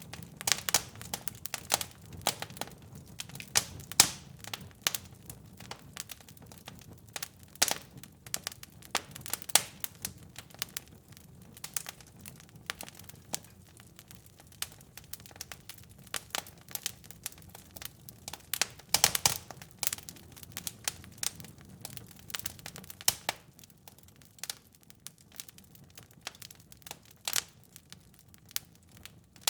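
Wood fire in a fireplace crackling, with irregular sharp pops and snaps, a few of them louder, over a low rumble of the flames that thins near the end.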